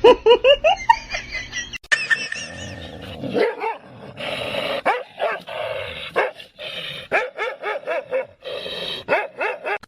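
A dog barking, with many short barks in quick runs and several in a second at times. The barking breaks off abruptly a few times.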